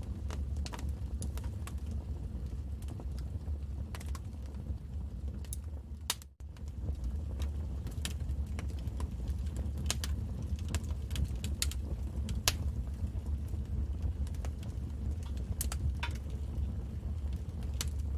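Wood fire crackling: irregular sharp pops and snaps over a steady low rumble of the flames. The sound briefly cuts out about six seconds in.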